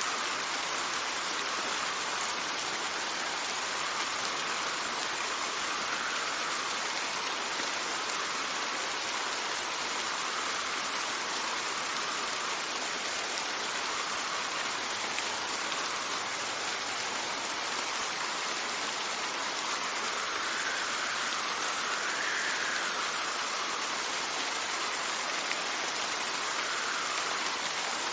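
Steady rain with wind that swells and fades in slow gusts every few seconds.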